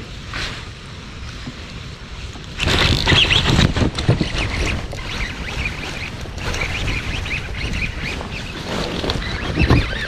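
Wind buffeting the microphone outdoors, gusting sharply louder about two and a half seconds in and staying strong.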